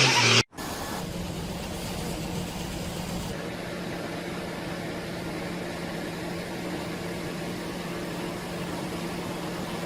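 An engine idling steadily with an even, constant hum. It starts abruptly after a brief drop-out about half a second in.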